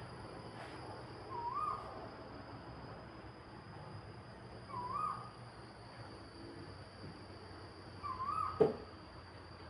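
A bird calling three times, about every three seconds, each call a short whistled note that dips and then rises. Steady high-pitched background tones run throughout, and a sharp click comes just after the last call.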